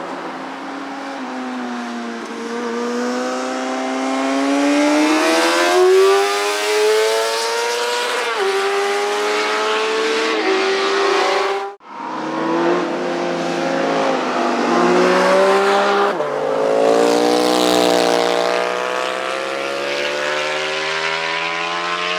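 Motorcycle engines accelerating hard, the pitch climbing and then stepping down at each upshift. About halfway the sound breaks off for an instant, then another engine revs up through the gears.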